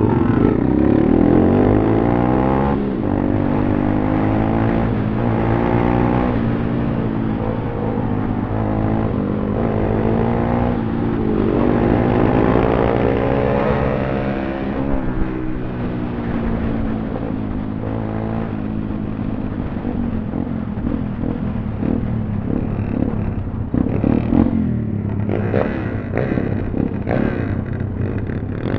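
Small single-cylinder four-stroke pit bike engine running under way, revving up and down repeatedly so that its pitch keeps rising and falling.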